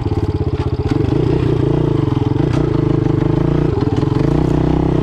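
Motoland Legend motorcycle engine idling steadily with an even, rapid pulse, just after being started.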